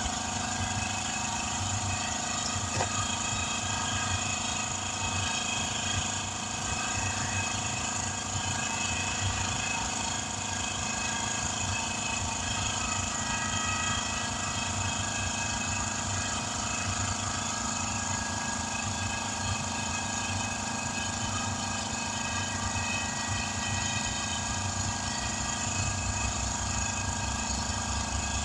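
A motor-driven machine running steadily, a constant hum of several tones with no change in speed.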